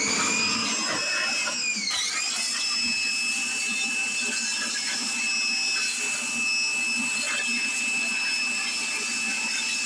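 An electric motor-driven machine starting up with a rising whine, then running steadily at a high pitch; it dips briefly under load about two seconds in and recovers.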